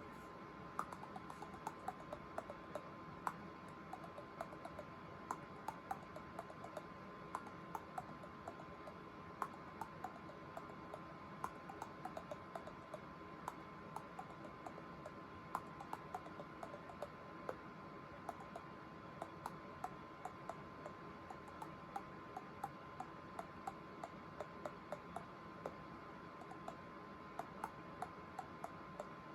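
Teeth clicked together in a quick, steady rhythm, a few clicks a second, each click taking a different pitch from the shape of the mouth so that the clicks trace out a melody. A faint steady high hum runs underneath.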